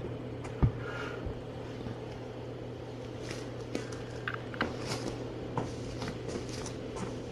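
Steady low machine-like hum, as from a fan or air handling, with faint scattered clicks and rustles and one sharp knock about half a second in.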